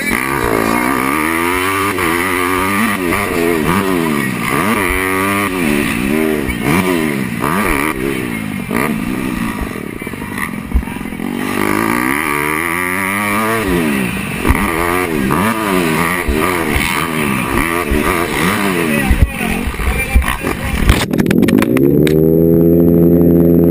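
Motocross bike engine revving up and falling back over and over as the rider accelerates, shifts and backs off, with a few sharp knocks. Near the end the engine settles into one steady pitch.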